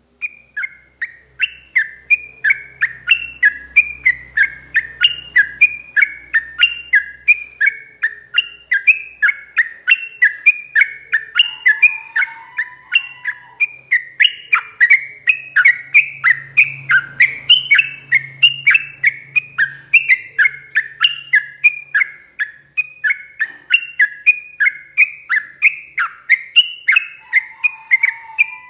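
Yellow-vented bulbul (trucuk) singing a long, unbroken run of quick chattering notes, about three a second, each dropping in pitch. A lower whistled note comes in twice, about twelve seconds in and near the end.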